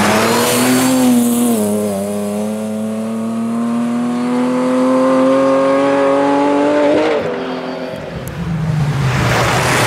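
Rally car engine pulling hard on a gravel stage: a brief dip in pitch about a second and a half in, like a gear change, then one long steady climb in pitch that drops off about seven seconds in. A hiss of tyres on gravel comes at the start and again near the end.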